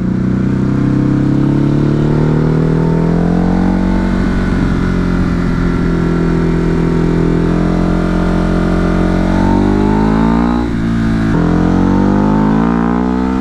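Ducati Hypermotard's V-twin engine under way, its pitch climbing as it accelerates. The pitch holds, rises again, then drops sharply about two-thirds of the way in, like a gear change, before climbing once more.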